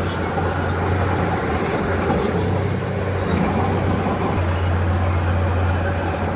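Heavy diesel earthmoving machine running steadily: a constant low engine drone under a dense grinding rattle, with brief faint high squeaks scattered through it.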